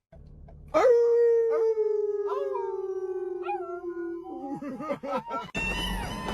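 A dog howling: one long howl that slowly falls in pitch, breaking into a wavering, broken-up end.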